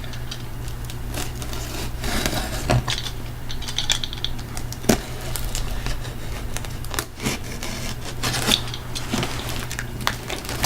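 A shipping package being cut and torn open by hand with a tool: crinkling, tearing and scraping of the packaging, with scattered sharp clicks.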